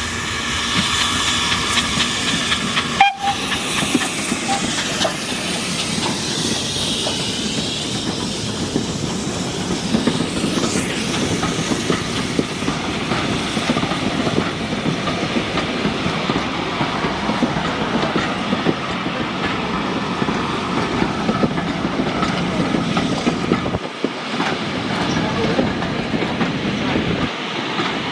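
Steam train running along the line, its wheels clattering steadily over the rails, with steam hiss.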